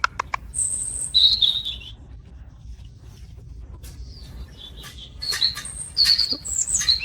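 A pet parrot chirping: a few sharp clicks at the start, short high chirps about a second in, then a quicker run of high chirps and trills over the last three seconds.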